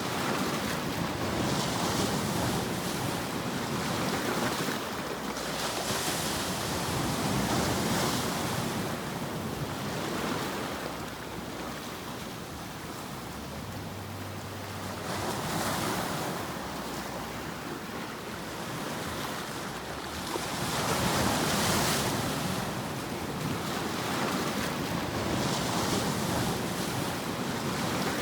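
Continuous sleep white-noise track: an even rushing noise that swells and ebbs every few seconds, like surf rolling in.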